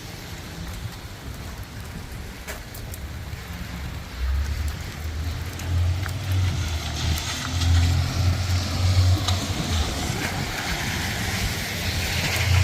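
Steady rain hiss. About four seconds in, a heavy, uneven low rumble joins it, and a brighter hiss builds toward the end.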